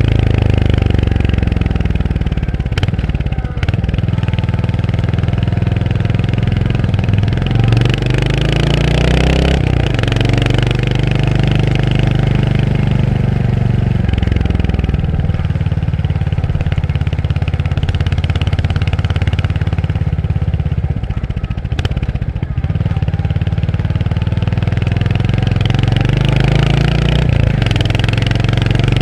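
Royal Enfield Hunter 350's single-cylinder engine pulling through the gears. Its pitch rises, then drops at an upshift a few seconds in and again near ten seconds. It settles into steadier, lower running in the middle, eases off briefly past twenty seconds and climbs again near the end.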